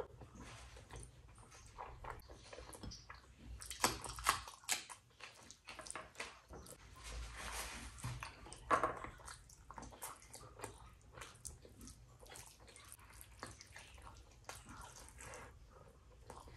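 Close-up chewing and lip-smacking of a person eating rice and curry, a steady run of small wet clicks from the mouth. Louder smacks come about four seconds in and again about nine seconds in.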